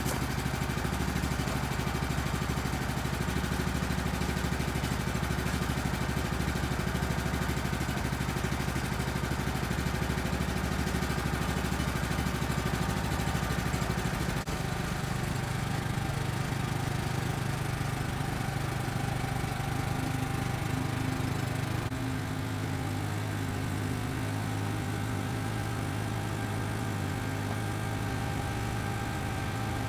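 Woodland Mills HM130 sawmill's gas engine running steadily at idle, its note shifting a little about halfway through.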